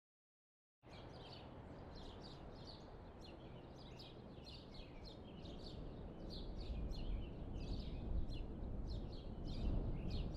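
Birds chirping in a quick run of short high calls, two or three a second, starting about a second in over a low ambient rumble that slowly swells.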